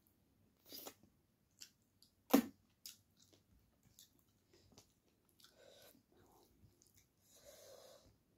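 Close-miked chewing of a mouthful of rice and chicken curry, with wet lip smacks and small clicks coming one at a time; the loudest smack comes about two and a half seconds in.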